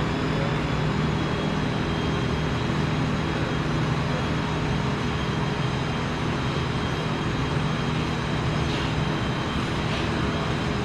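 Steady drone of running machinery with a low hum and a faint high whine, unchanging throughout.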